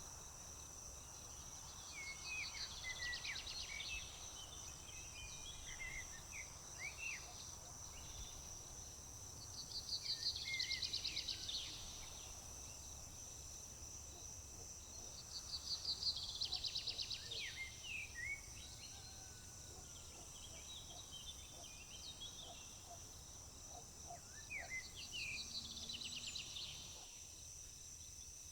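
A steady, high chorus of crickets, with a songbird singing the same short song four times, about every six to eight seconds; each song is a few quick notes and a fast trill.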